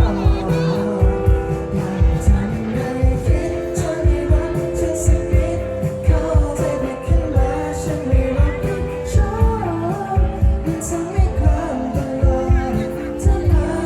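Live pop band playing a Thai pop song, with a steady drum beat about twice a second under sustained keyboard chords.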